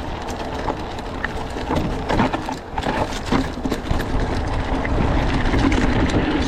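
Mountain bike being ridden on a dirt trail, heard from a helmet or bike-mounted action camera: wind buffets the microphone, with tyre noise and frequent rattles and knocks from the bike. The noise grows louder in the second half.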